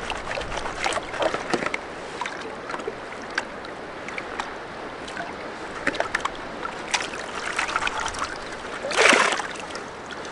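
Water sloshing and splashing while riverbed gravel is washed for gold, small stones clicking against each other and the equipment. A louder splash comes about nine seconds in.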